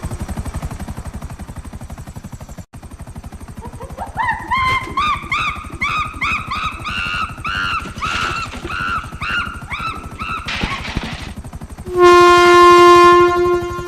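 Train horn blowing a loud chord for about a second and a half near the end. Before it come a fast low pulsing and, from about four seconds in, a run of repeated warbling tones that rise and fall, then a short hiss.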